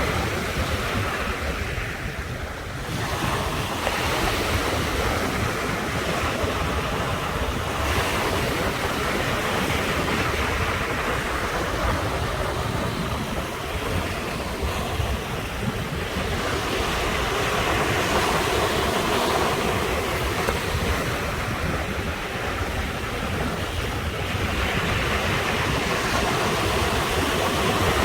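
Sea waves breaking and washing in continuously, the surf swelling and easing every several seconds, with wind buffeting the microphone.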